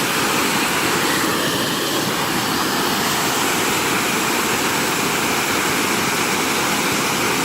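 Waterfall's water rushing, a steady, loud, unbroken wash of noise.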